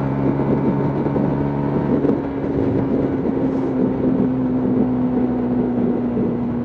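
Lexmoto LXR125 motorcycle's 125 cc single-cylinder four-stroke engine running at a steady cruise, with a continuous hum and wind and road noise over the onboard microphone. The engine note changes slightly about two seconds in.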